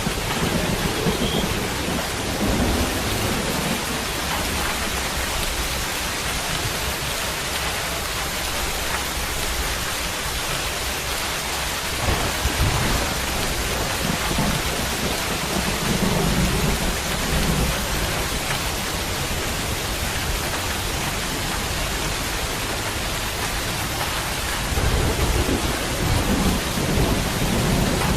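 Steady heavy rain hissing, with low rumbles that swell several times, strongest near the end.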